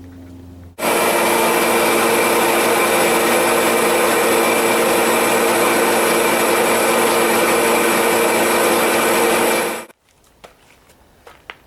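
Forced-air torpedo heater running on test: a steady rushing noise of fan and burner with a constant hum, starting abruptly about a second in and cutting off abruptly near the end.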